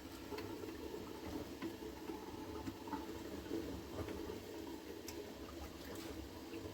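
Washing by hand with water: a steady wash of water and splashing, with a few light clicks of things being handled.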